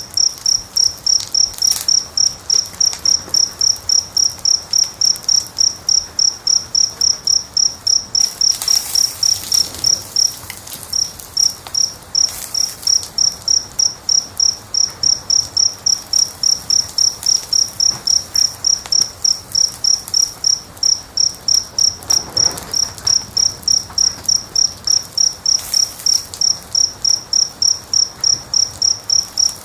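A cricket chirping steadily, about three high chirps a second with a brief pause near the middle. A wood fire crackles faintly beneath it.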